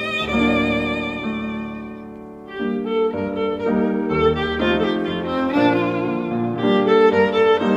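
Background music led by a violin playing a slow melody with vibrato over a low accompaniment, dipping briefly about two seconds in.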